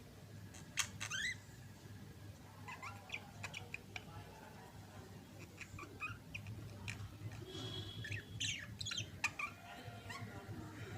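Budgerigars chattering: a string of short chirps, clicks and quick warbles, with sharper calls about a second in and again near the end.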